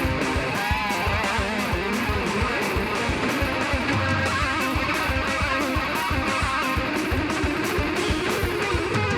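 Hardcore band playing live at full volume: distorted electric guitars and bass over fast, driving drums.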